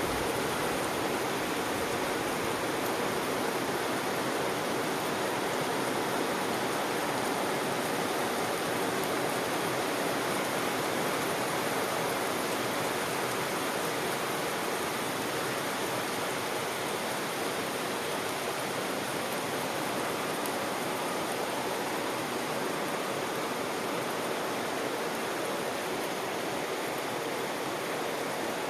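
Heavy rain falling in a steady, even downpour during a storm.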